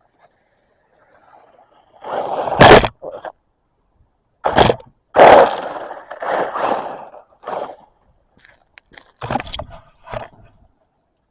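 Radio-controlled car driving close by on rough ground: bursts of tyre and chassis scraping broken by several loud knocks, the loudest about two and a half seconds in and again around five seconds, with quieter rattles near the end.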